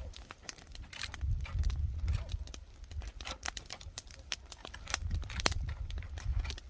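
Wood fire crackling and popping in irregular sharp snaps, with wind rumbling on the microphone.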